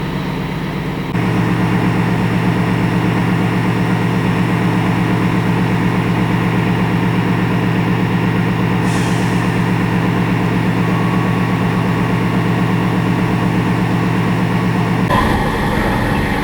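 Railway locomotive running at a station, giving a steady low hum that gets louder about a second in.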